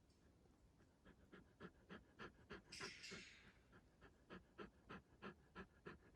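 Faint, fast, rhythmic panting at about three to four breaths a second, starting about a second in, with one longer hissing breath near the middle.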